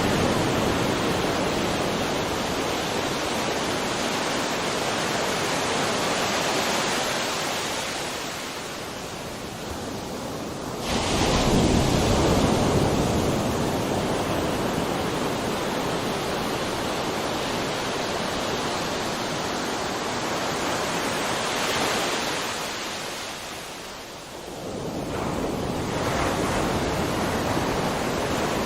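Sea waves breaking and washing on a shore: a steady rush of surf that swells with a fresh wave about eleven seconds in, eases off, and builds again with another wave near the end.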